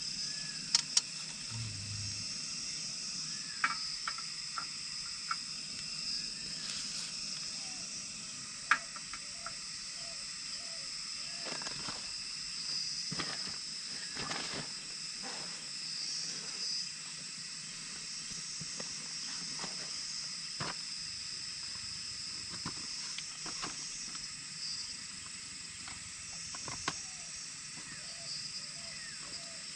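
Forest ambience dominated by a steady high-pitched chirring of insects such as crickets or cicadas. Occasional short chirping calls and a few sharp clicks sound over it.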